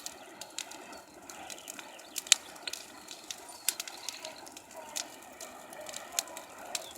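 Large bonfire burning, crackling with sharp pops at irregular intervals.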